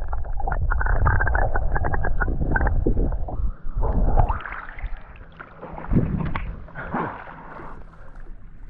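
Water sloshing, splashing and gurgling against a kayak's hull, muffled, with a heavy low rumble. It is loud for the first few seconds, then eases off with a couple of smaller splashes.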